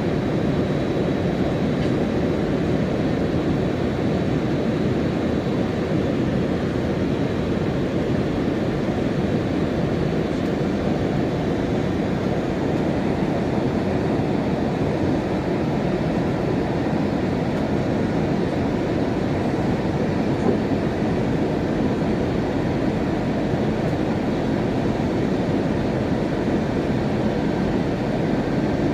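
Steady low rumble of an Airbus A321-200 airliner in motion, with faint steady whining tones above it and a single brief knock about twenty seconds in.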